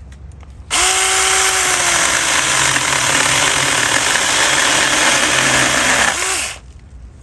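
Saker mini cordless electric chainsaw starting about a second in and running for about six seconds as it cuts a fig branch. Its motor whine sags in pitch under the load, rises briefly near the end, then stops.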